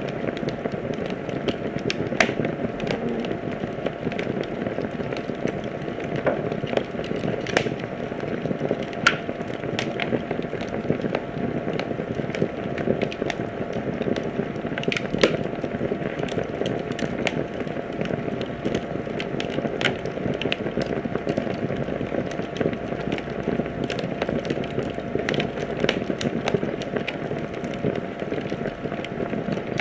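Wood fire in a fireplace burning with a steady, dense crackle, broken by sharper, louder pops every few seconds.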